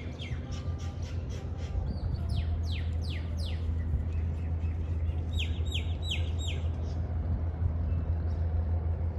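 Birds calling: a run of quick falling chirps in the first few seconds, then a brief burst of four sharp calls about halfway, over a steady low rumble.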